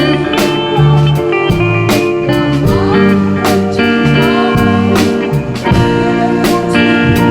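Live band playing an instrumental passage with no vocals: a lead guitar carries the melody, bending notes, over drums, bass and keyboard.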